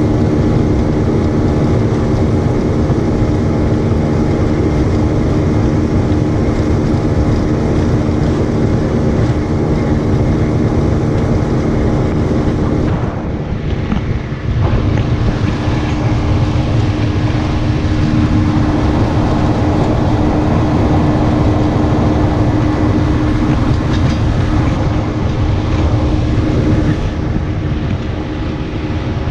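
Boat motor running steadily at speed, under a heavy rush of wind and water. The sound eases briefly about halfway through and again near the end.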